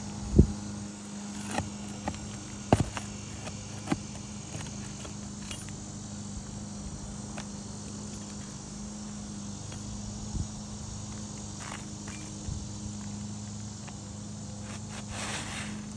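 Scattered sharp knocks and clicks, loudest about half a second in and again near three seconds, over a steady low hum and a continuous high insect buzz.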